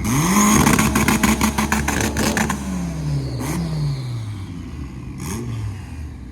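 A car engine revving hard. The pitch climbs quickly and holds with a rapid crackle for about two seconds, then drops away. A second, shorter rise and fall comes about three seconds in.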